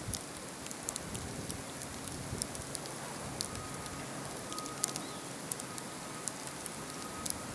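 Blizzard outdoors: a steady hiss of the storm with many small sharp ticks of driven snow or ice hitting surfaces.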